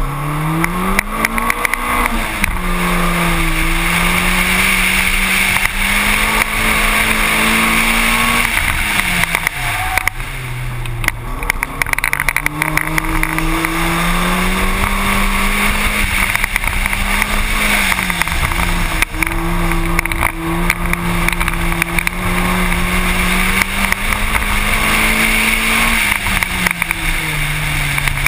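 Car engine under hard acceleration. It climbs steeply at the launch, then rises and falls as the car is driven around a cone course, backing off twice before pulling again.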